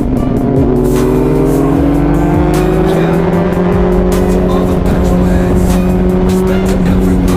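Honda CBR600RR's inline-four engine running under way, its pitch climbing smoothly as the revs rise for a few seconds, then holding steady at cruise.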